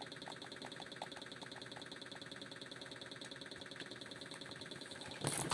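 A small electric motor running steadily with a fast, even whirr. A short loud burst of noise comes about five seconds in.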